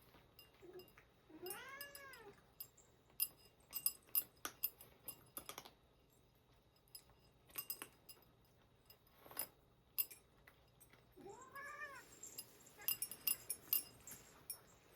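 A domestic cat meows twice, one call about a second in and one near the end, each rising and then falling in pitch. In between come bursts of quick sharp clicks and crunches from cats eating at their food dishes.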